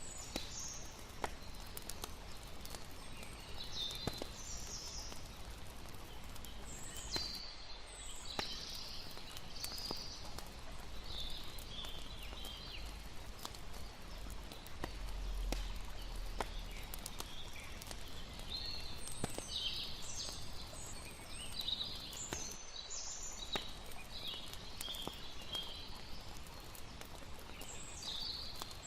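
Layered night ambience: scattered sharp crackles and pops of a campfire over a steady low rumble, with clusters of high chirping from night creatures that come and go, busiest about a third of the way in and again in the last third.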